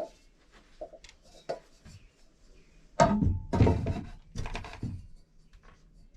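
Irregular knocks and clatter of hard objects being handled: a few light taps early, then a louder run of knocks and rattling about three to five seconds in.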